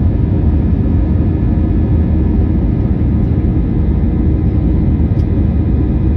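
Airliner in flight after takeoff: its engines and rushing air make a deep, even drone that does not change.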